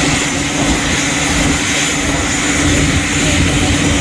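Tractor-pulling machine powered by four helicopter turbine engines running at high power: a loud, steady rush of turbine noise with a faint high whine.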